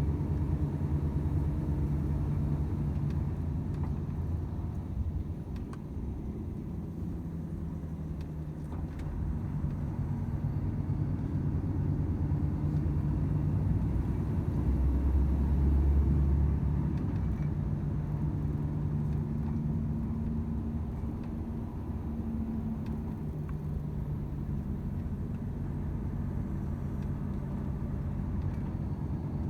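Volvo FH 500's 13-litre six-cylinder diesel truck engine running under way: a steady low drone with road rumble. Its pitch shifts a few times, and it is loudest about halfway through.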